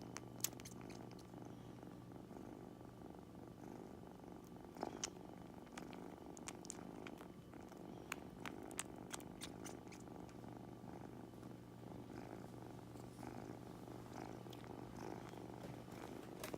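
Kitten purring steadily, with a few short, faint clicks scattered through.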